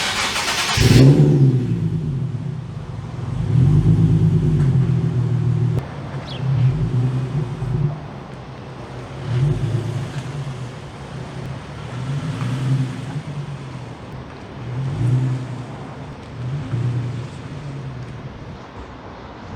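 Nissan 370Z's 3.7-litre V6 and exhaust revving up and dropping back several times, each rise in revs louder. A short sharp noise comes right at the start.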